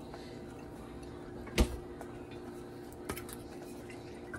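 Kitchen handling sounds: one sharp clack of a hard object being set down about a second and a half in, and a fainter tick about three seconds in, over a faint steady hum.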